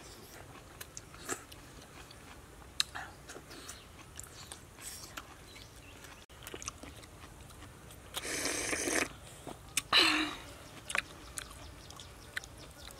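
People eating grilled fish and fish soup by hand: close chewing and biting with small clicks and crunches, and two louder noisy bursts near the end.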